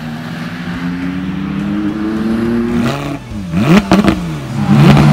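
A car engine accelerating, its pitch climbing steadily for about three seconds. In the last two seconds the revs fall and rise sharply several times.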